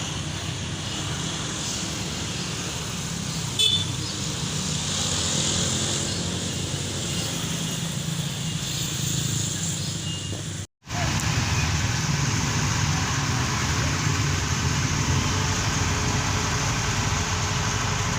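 A vehicle engine running steadily with road noise. There is a short sharp click about three and a half seconds in, and the sound cuts out completely for a moment about two-thirds of the way through before the same noise resumes.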